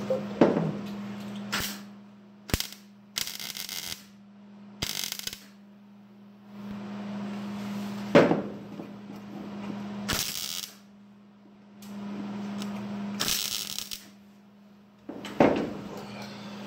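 Welder tack-welding thin sheet metal in about five short crackling bursts over a steady electrical hum, with a few sharp knocks between them; this is pinholes in the welds being filled.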